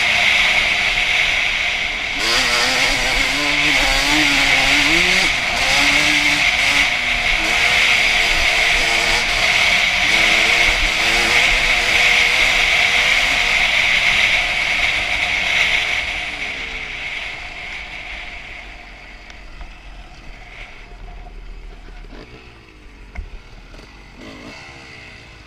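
2001 Honda CR250's single-cylinder two-stroke engine running on the trail, its revs rising and falling. About two-thirds of the way in it fades to a much quieter, low running.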